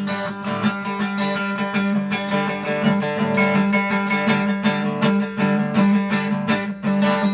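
Guitar strummed in a steady rhythm, an instrumental stretch with no singing.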